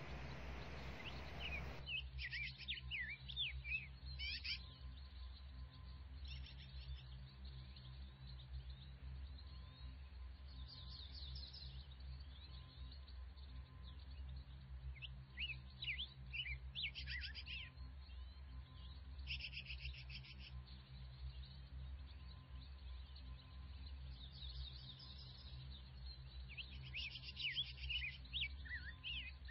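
Birds chirping and calling in short repeated bursts over a low, steady background hum.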